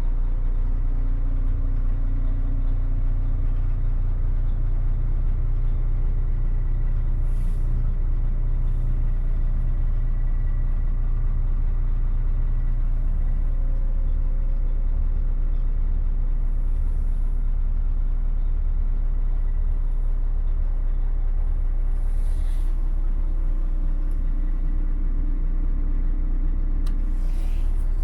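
DAF CF75 310 truck's six-cylinder diesel engine idling steadily, with a few short hisses of air scattered through.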